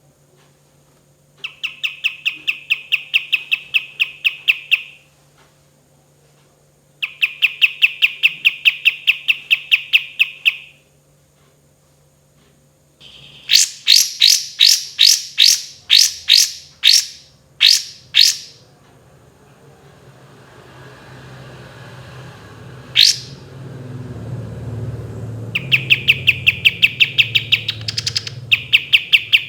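Kapas tembak songbird singing: long, fast rattling trills of several seconds each, then a slower run of loud sharp notes and a single rising whistle, before the fast trills start again near the end. A low rushing noise builds up underneath in the second half.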